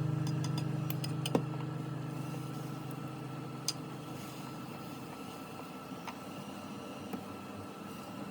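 Low note of the acoustic guitar background music fading out over a few seconds, followed by faint room noise with a few light clicks.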